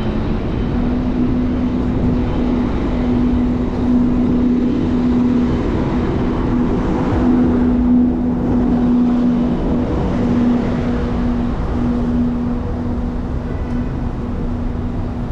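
Street traffic noise heard from a moving bicycle, with a low rumble and a steady droning hum that drops out briefly a few times.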